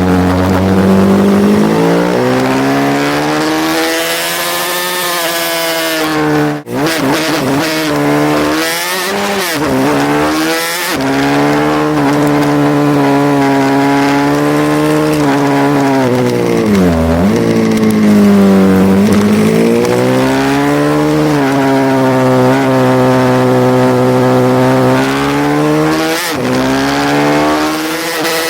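Small racing motorcycle (pit bike) engine under hard use, its revs climbing and dropping again and again as it accelerates and backs off through corners, with a steady hiss of wind over it. The sound drops out briefly about six and a half seconds in.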